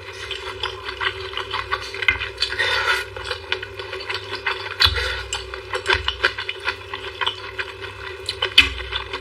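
Close-miked eating sounds: chewing with frequent sharp crunches and wet smacks, loudest a little before the end.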